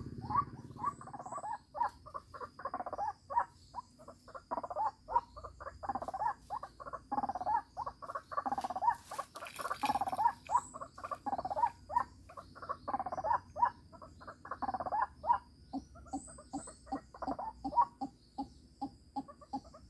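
White-breasted waterhen (ruak-ruak) calling: a long unbroken run of short, repeated calls, a few a second.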